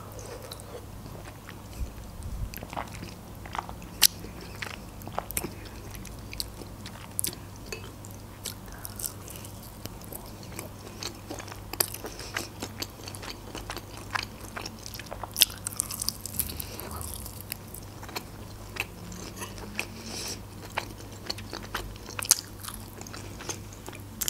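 Close-miked chewing and eating: grapefruit flesh and then a chicken wing being bitten and chewed, with many small wet clicks and smacks scattered throughout over a faint steady hum.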